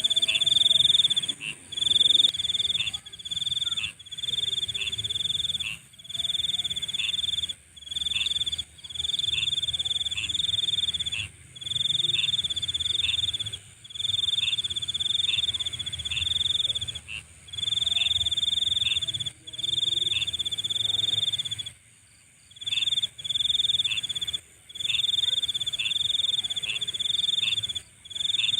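Night insect chorus: crickets trilling in a steady high pitch, in bouts of one to two seconds broken by brief gaps, over a continuous higher buzz from other insects.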